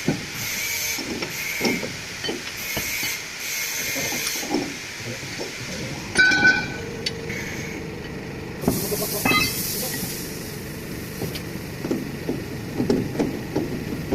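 Air hissing in on-off bursts, then steadily for the last few seconds, with scattered metallic clinks and knocks from work on a truck's suspension; one clink rings briefly about six seconds in.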